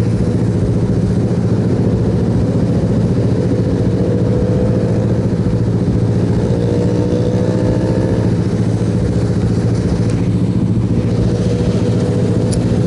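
Suzuki Yes motorcycle engine running at a steady pace while riding, heard from a camera on the bike as an even, unbroken hum under road and wind noise.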